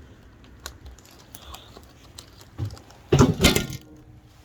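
Bonfire wood crackling with scattered sharp pops, and a short, loud burst of noise a little over three seconds in.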